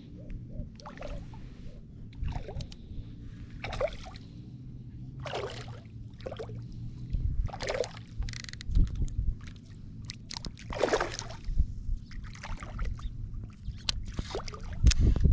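Water sloshing and splashing in repeated surges every second or two, over a steady low rumble of wind buffeting the microphone.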